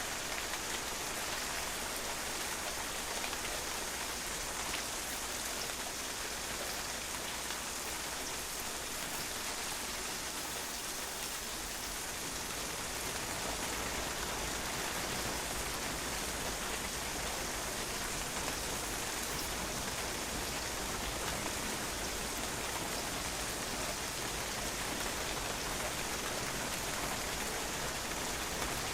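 Steady rain falling, drops pattering on a patio surface in a dense, even hiss with countless small drop ticks.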